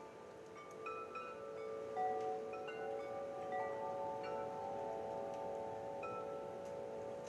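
Wind chimes ringing gently: several metal chimes struck at irregular moments, their tones overlapping and lingering.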